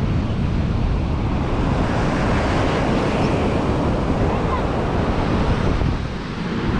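Surf washing onto the beach, with wind buffeting the microphone in a steady low rumble that eases briefly about six seconds in.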